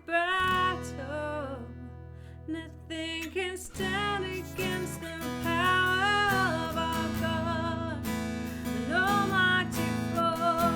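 A woman sings a wordless worship-song melody over strummed acoustic guitar.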